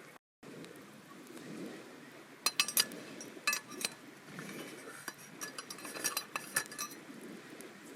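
Metal cooking utensils clinking and tapping, a run of sharp ringing clinks starting about two and a half seconds in, over a faint steady background. All sound drops out briefly just after the start.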